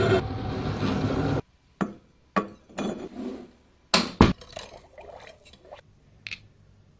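A power tool runs briefly and cuts off suddenly, followed by a scattering of sharp metal clinks and knocks, the two loudest close together near the middle.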